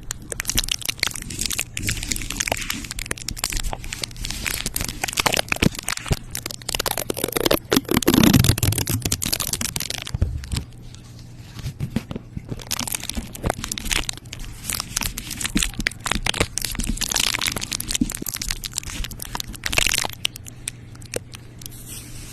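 Close-miked ASMR crinkling and crunching: dense crackles and clicks, busiest and loudest in the first half with a peak about eight seconds in, then sparser.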